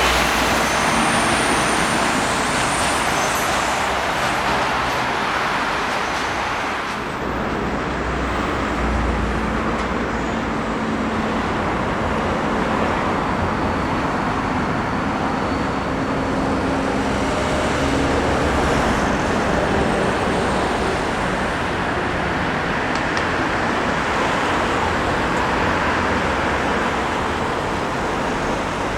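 A train passing, its wheels giving a long, steady rolling and rushing noise on the rails.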